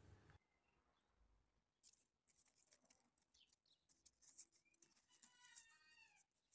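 Near silence, with faint bird calls in the background: a short run of quick chirps about five seconds in.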